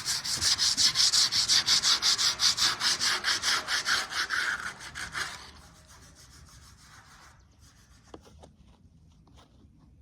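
Rapid back-and-forth hand scrubbing on the rusty metal of a pig grill, about seven strokes a second, stopping after about five and a half seconds, followed by a fainter stretch of scrubbing.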